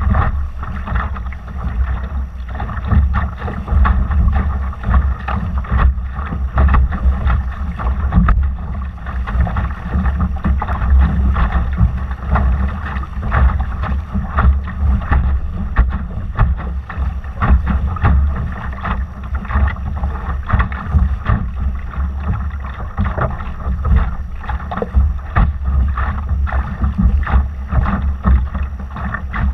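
Water splashing and rushing around a Laser sailing dinghy under way, in constant short irregular splashes, with heavy wind rumble on the microphone underneath.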